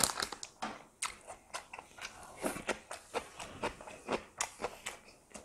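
A person chewing and biting food, with a run of short, irregular mouth clicks.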